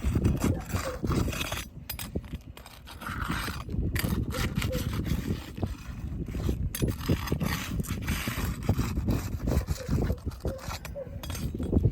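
Roofing hand tools scraping and knocking on asphalt shingles in an irregular run, as shingles are worked loose for a spot repair.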